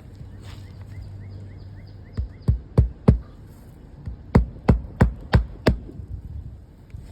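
Hammer driving roofing nails into an asphalt shingle. A run of four sharp strikes, a pause of about a second, then a second run of five or six strikes.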